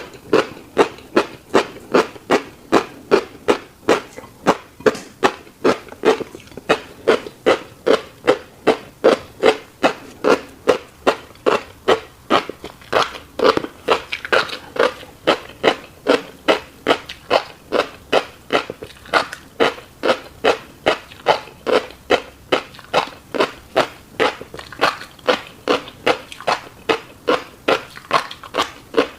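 Close-miked chewing of a mouthful of fish roe, with wet mouth smacks in a steady rhythm of about two chews a second.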